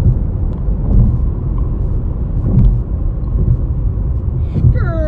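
Steady low rumble of a vehicle. Near the end a brief high-pitched sound falls slightly in pitch.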